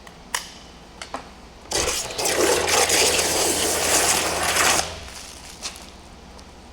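Water spraying in one burst of about three seconds, after a few sharp clicks, during a car wash.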